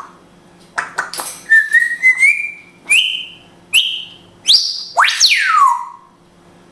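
African grey parrot whistling: a run of short notes, each a little higher than the last, then a quick upward sweep into a long whistle sliding down in pitch. Short clicks come before several of the notes.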